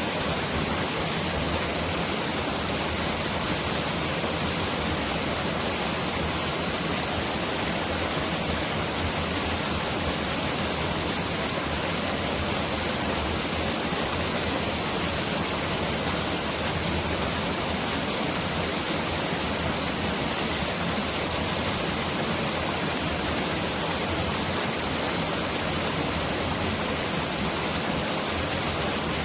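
Mountain valley stream rushing over rocks: a steady, dense hiss of running water that sounds like heavy rain.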